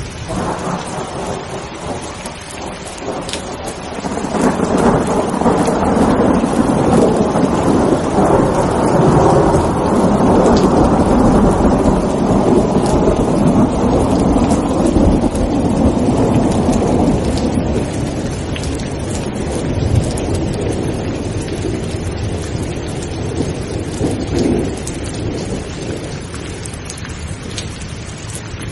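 Steady rain with a long roll of thunder that swells about four seconds in, holds for over ten seconds and slowly dies away, with a couple of smaller rumbles later.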